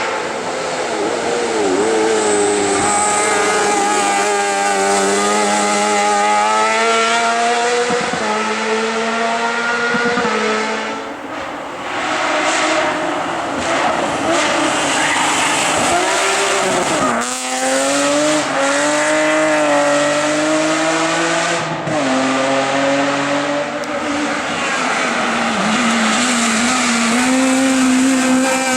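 Hill-climb race car engine at full throttle, its pitch climbing through each gear and dropping at every shift. About seventeen seconds in, the pitch falls sharply and then climbs again.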